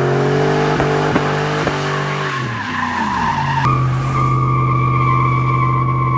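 A vehicle engine held at high revs during a burnout, its tires spinning and squealing. About two and a half seconds in the revs sag, then they come back up and hold steady, with a shrill, steady tire squeal on top.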